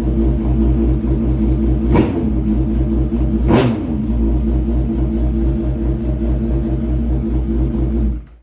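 Suzuki Hayabusa inline-four motorcycle engine, freshly installed, idling with two quick throttle blips about two and three and a half seconds in; the sound cuts off abruptly near the end.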